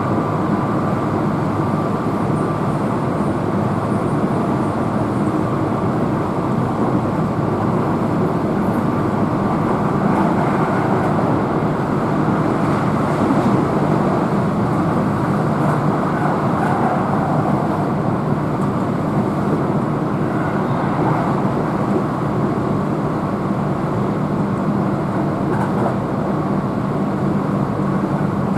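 Keihan electric commuter train running steadily at speed, heard from inside the passenger car: a constant rumble of wheels on rail with a faint steady whine from the motors.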